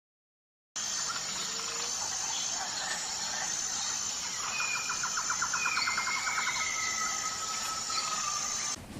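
Outdoor ambience with a steady high-pitched drone, over which a bird gives a rapid trill about halfway through and a few drawn-out whistled notes. The sound cuts in abruptly under a second in and cuts off just before the end.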